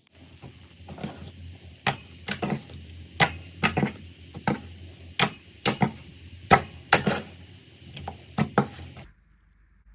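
Slime being pressed and worked, giving a string of sharp, irregular pops and clicks, about a dozen of them loud, over a faint low hum; it all cuts off suddenly near the end.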